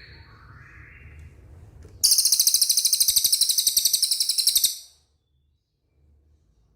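Cililin bird singing a loud, rapid, very high-pitched trill that starts abruptly about two seconds in and stops sharply after nearly three seconds, after fainter lower chirps.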